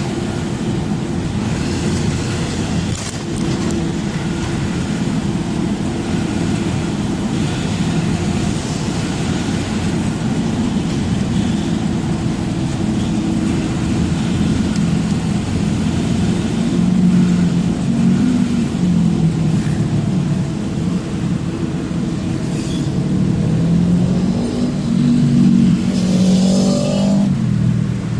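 Truck engine running steadily while driving, its pitch rising and falling in the second half as the engine speed changes.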